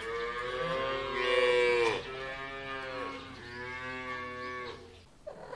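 Cow mooing twice: two long, drawn-out moos, the first louder and swelling toward its end.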